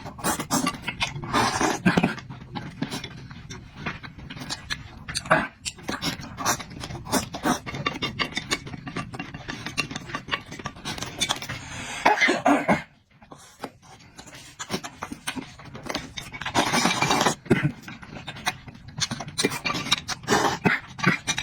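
Close-up eating sounds: wet chewing and lip smacking with many short clicks, and longer noisy stretches about 12 and 17 seconds in, with a brief lull just after the first.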